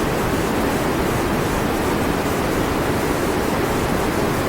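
Steady, loud roar of rushing floodwater, an even noise with no breaks.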